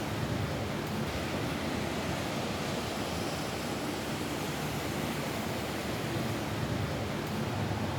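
Steady rain falling on a roof: an even, unbroken hiss with no separate drops or thunder standing out.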